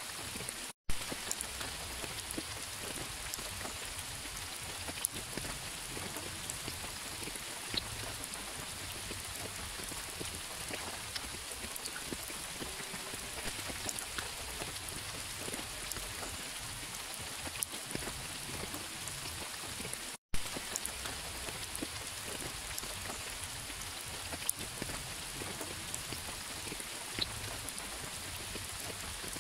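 Steady rain falling, with single drops ticking sharply here and there. The sound cuts out for an instant twice, about a second in and about twenty seconds in, each time with a sharp click.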